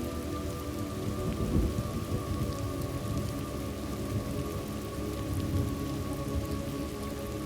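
Thunderstorm ambience: steady rain with low rumbles of thunder, swelling about a second and a half in and again past the middle.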